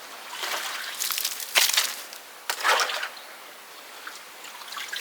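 Water sloshing and wet muck and plants being pulled out of an old water trough, in three short splashy bursts in the first three seconds.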